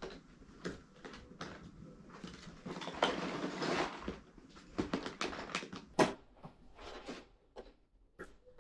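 Handling noises: irregular clicks and knocks with a longer rustle about three seconds in and a sharp click about six seconds in.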